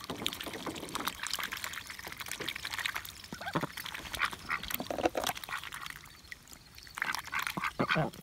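Domestic ducks dabbling and gobbling chopped greens in water: irregular wet splashing and slurping, with a few short calls.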